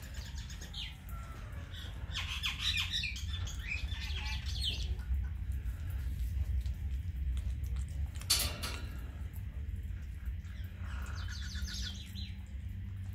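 Birds chirping and squawking in bursts, a flurry about two seconds in and another near the end, over a steady low rumble.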